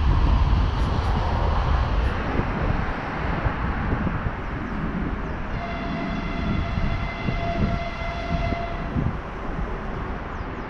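Freight wagons rumbling on the rails as a freight train rolls away, the rumble slowly dying down. About six seconds in, a distant 2TE116 diesel locomotive sounds its horn: one long steady note held for about three seconds.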